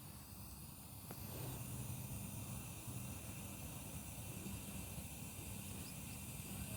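Faint steady low hum with a light hiss, stepping up slightly about a second in; no distinct knocks or tool strikes.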